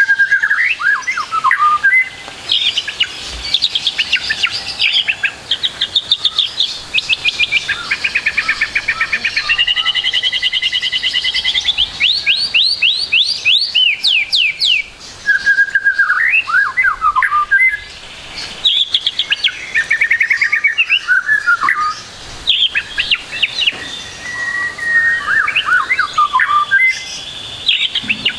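White-rumped shama (murai batu) singing a long, varied song of whistled phrases, rapid trills and fast repeated sweeping notes, with only brief pauses between phrases. The song is packed with phrases copied from other birds' songs.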